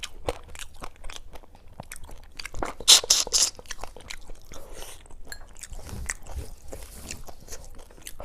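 Close-miked chewing and crunching of crispy fried fish eaten by hand, with a louder run of crunches about three seconds in.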